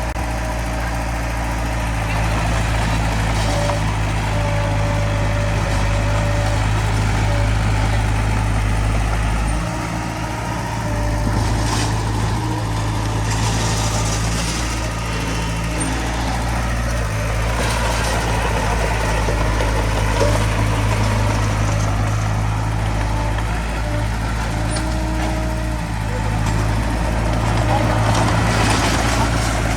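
Diesel engine of a Komatsu D20P bulldozer running steadily under load, its level dipping and rising again every several seconds, with now and then a clank.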